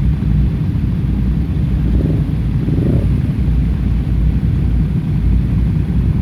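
A loud, steady low rumble, swelling slightly about two to three seconds in.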